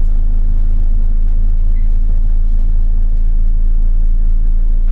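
Steady low rumble and hum from an Enviro400 BAE hybrid bus's drivetrain, heard on board, with no change or break.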